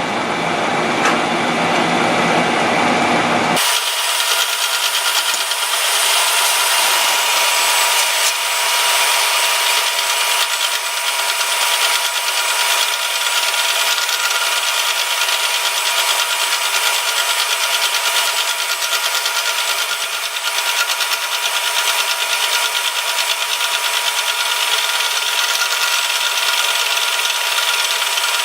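A power tool working metal, running steadily with a continuous rasping, scraping noise and a few steady whining tones. About three and a half seconds in, the deep part of the sound drops out abruptly.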